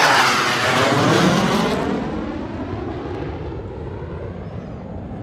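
An airplane passing by at an airshow: loud for the first two seconds, then fading away as it recedes.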